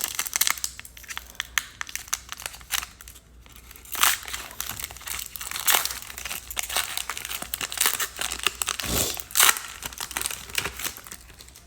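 Foil wrapper of a trading-card pack crinkling and tearing as it is opened, with irregular crackles and rustles throughout.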